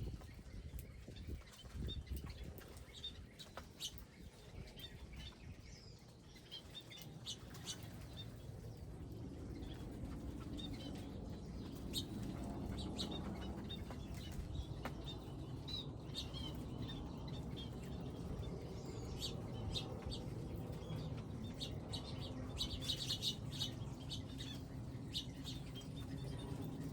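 Small wild birds chirping with short, high calls. A low rumble rises in the background from about nine seconds in.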